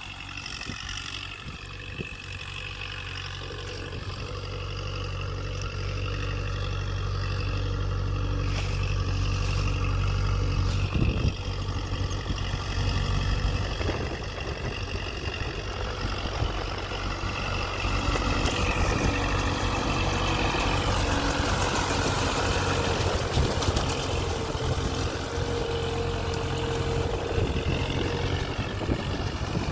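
Kubota MU 4501 tractor's diesel engine running steadily. It grows louder over the first ten seconds or so, then holds a steady level.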